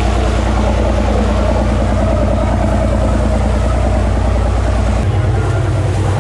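Cruise boat's engine running steadily, heard on board, its low note shifting about five seconds in.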